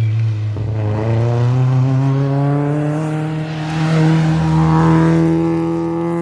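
Rally car engine under hard acceleration, its pitch climbing steadily through a long pull in one gear. It grows loudest about four to five seconds in.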